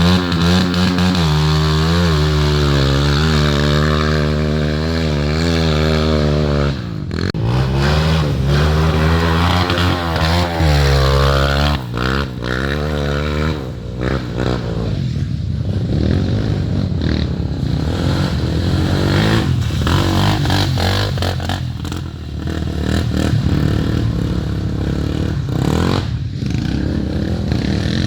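Trail motorcycle engines running: first a steady engine note that dips twice and picks up again, then a rougher, rattling engine sound with light clatter.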